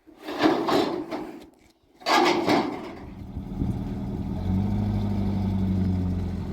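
Two short noisy bursts, then a vehicle engine running steadily, its hum growing a little stronger about four and a half seconds in.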